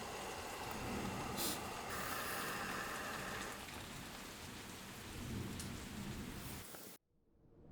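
Steady rain falling, an even hiss of drops, cutting off suddenly about seven seconds in.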